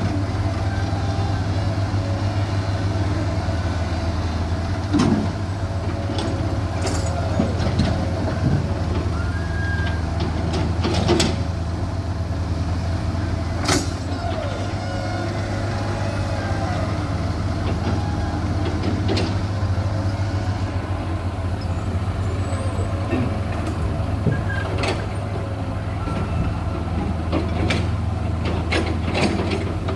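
Heavy diesel engines running steadily with a low hum, broken by occasional sharp knocks and clanks.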